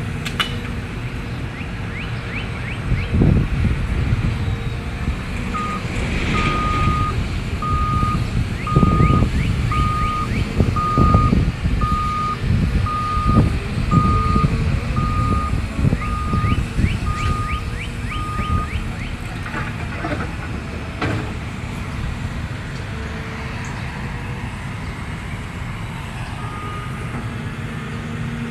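Cat M322F wheeled excavator's diesel engine working, its rumble rising and falling with the load. About five seconds in, a backup alarm starts beeping steadily about once a second and keeps on for some thirteen seconds.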